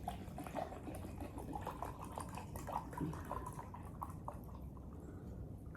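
Water poured into a cup to measure out enough for a cup of coffee, with faint irregular drips and splashes.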